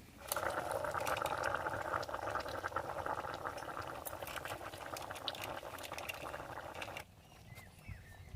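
A pot of food boiling hard over the fire, a dense bubbling and crackling. It starts abruptly and cuts off suddenly about seven seconds in.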